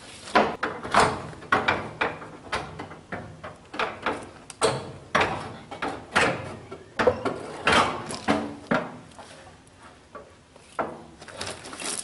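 A radiator being worked loose and lifted out of a Case 580C backhoe's frame: irregular metal knocks, clunks and scraping, at times several a second.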